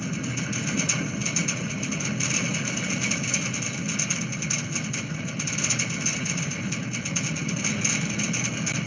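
Strong wind setting metal structures and wire ropes resonating: a steady, dense whistling and howling drone.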